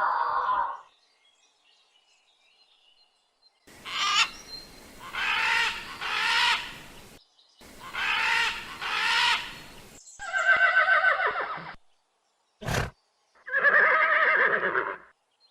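A series of animal calls, seven or eight separate pitched cries with pauses between them, and one sharp click in the middle.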